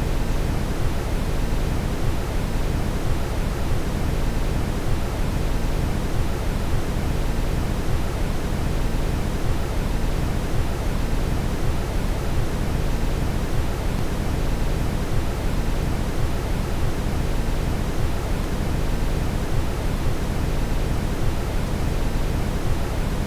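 Steady brown noise: an even, unbroken rushing hiss, heaviest in the deep low end and thinning toward the top.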